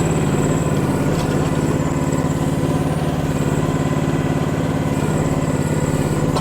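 Micro excavator's small engine running steadily at an even speed.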